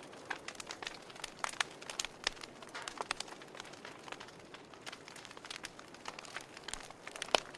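Wood fire burning in a fireplace, crackling with irregular sharp pops and snaps over a soft hiss; one louder pop near the end.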